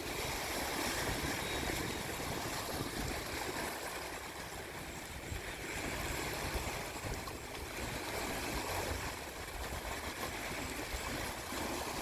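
Steady rushing wash of water, swelling and easing a little.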